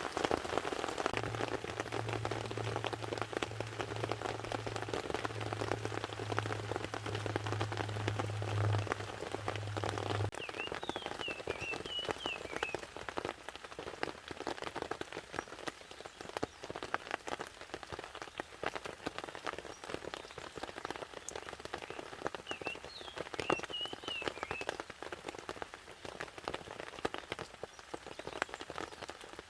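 Rain pattering on a tarp overhead: a steady haze of drops with many separate taps. A low steady hum runs through roughly the first ten seconds, and a short high chirping call comes twice.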